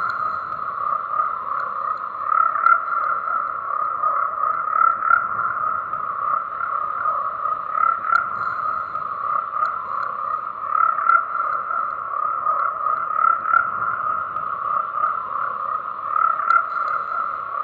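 A dense chorus of frogs croaking, many calls overlapping into a steady wall of sound that swells and eases every second or two.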